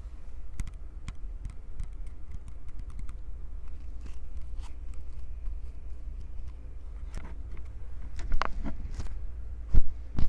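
Hands gripping and squeezing a Tascam recorder's microphones: a steady low handling rumble under scattered small taps and clicks, with a few louder clicks near the end.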